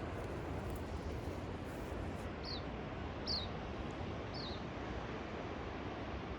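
A small bird gives three short, high, downward chirps a second or so apart, over a steady rushing background of wind and distant surf.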